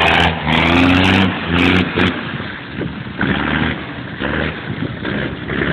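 Deuce-and-a-half army truck engine revving in a few short bursts in the first couple of seconds, then running at lower revs.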